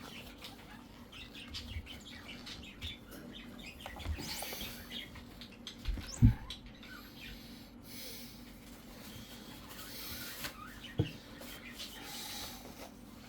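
Cloth wiping over a laptop screen: soft rubbing strokes with small squeaks, and two light knocks, a little after halfway and near the end.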